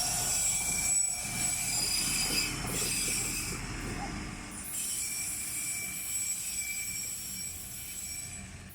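Rail cars rolling along the track with steady high-pitched wheel squeal over a low rumble, fading somewhat toward the end.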